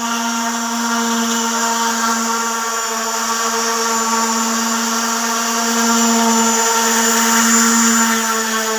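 Handheld electric sander running steadily on a synthetic solid-surface tabletop, with a constant motor whine that swells slightly near the end.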